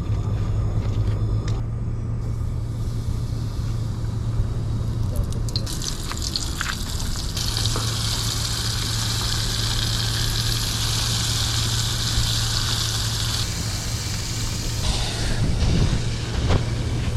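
Shrimp deep-frying in hot oil, a sizzling hiss that comes in about six seconds in, swells a second later and eases near the end, over a steady low hum and rumbling background noise.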